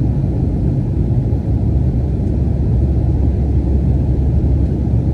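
Jet airliner cabin noise: the engines and airflow make a steady, loud low rumble.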